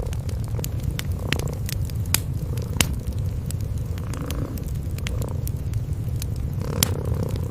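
Cats purring, a steady low rumble, under a crackling wood fire whose sharp pops and snaps come at irregular moments throughout.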